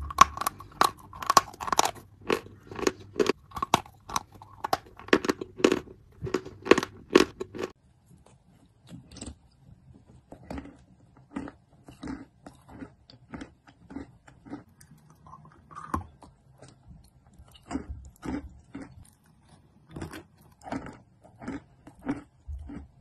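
Close-up chewing of chalk: rapid, loud crunches for the first seven or eight seconds, then softer, quieter, more spaced-out chews.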